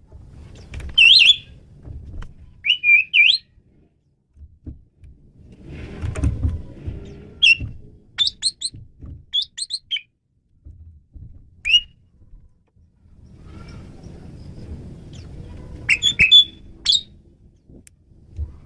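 Asian pied starling (jalak suren) calling in several short groups of sharp whistled and chattering notes, separated by pauses. A low rumble sits in the background about six seconds in and again from about thirteen seconds.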